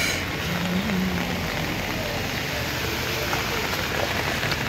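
Rain falling onto shallow floodwater, a steady hiss of drops pattering on the water's surface.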